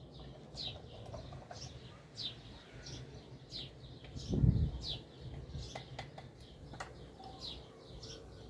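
A small bird calling over and over, short falling chirps about once every two-thirds of a second. About four and a half seconds in there is a loud low bump, the loudest sound, and a few sharp clicks follow around six to seven seconds in.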